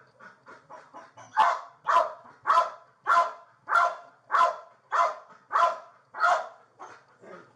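Police K9 dog barking in a steady run of about nine loud barks, a little over half a second apart, with softer sounds before the run and after it ends near the end.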